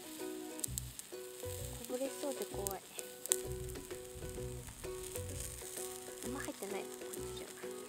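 Chicken wings sizzling on a small grill plate over a gas canister camp stove, with a few sharp clicks as tongs turn them. Soft background music plays along.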